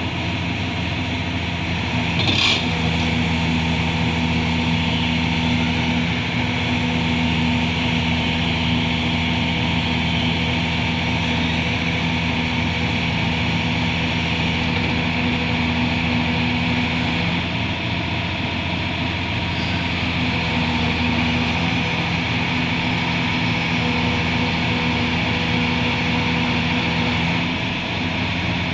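Liebherr R 944B demolition excavator running steadily, its diesel engine humming under a hiss, with one sharp knock about two seconds in.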